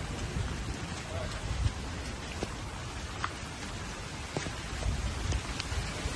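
Heavy typhoon rain pouring down and pattering on surfaces, with scattered sharp drop ticks over a low, uneven rumble.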